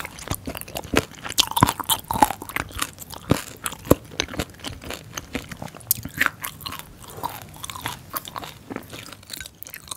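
Close-miked chewing of a mouthful of hongeo samhap (fermented skate, pork and aged kimchi), with many irregular crisp crunches.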